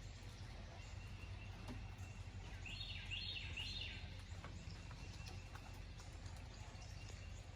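Quiet outdoor ambience with a steady low hum and a faint thin whine, and a bird calling three quick falling notes about three seconds in.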